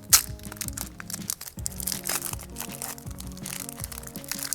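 A foil Pokémon card booster pack wrapper crinkling and being torn open, with a sharp rip near the start and dense crackling after it. Background music with steady held notes plays underneath.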